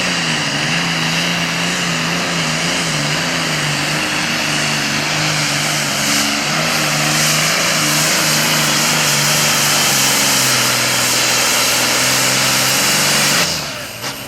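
Super Farm class pulling tractor's turbocharged diesel engine running flat out under load as it drags the sled down the track. Its pitch sags early on and then holds steady. Near the end the engine comes off throttle and the sound drops away sharply.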